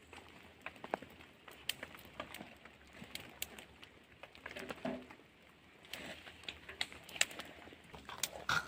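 Thin dry spruce twigs snapping and crackling as they are broken and fed onto a small newly lit campfire: scattered sharp cracks, several a second at times.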